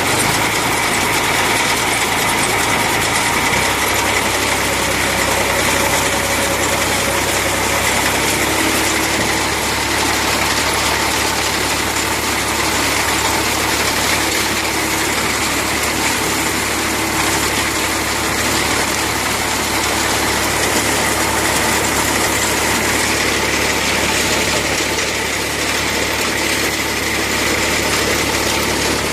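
Tractor diesel engine running steadily while driving a front-mounted reaper binder through its PTO. The engine note shifts slightly a few seconds in and again about eight seconds in.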